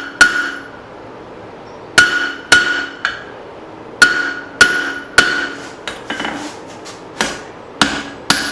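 Blacksmith's hammer striking hot steel on an anvil while forging a hatchet head, about a dozen blows in groups of two or three with short pauses, each blow leaving a high metallic ring from the anvil.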